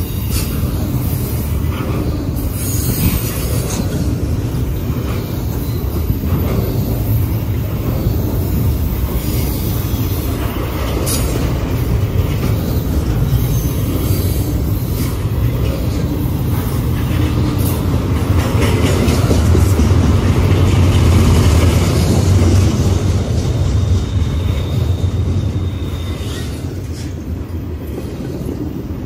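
Double-stack intermodal freight train rolling past: a steady rumble of steel wheels on the rails with scattered clicks, swelling louder about two-thirds of the way through. A thin high wheel squeal comes in near the end.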